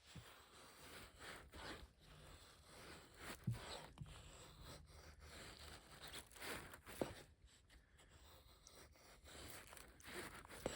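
Knife blade shaving thin curls down a wooden stick to make feather sticks: faint scraping strokes at irregular intervals, a couple of them sharper than the rest.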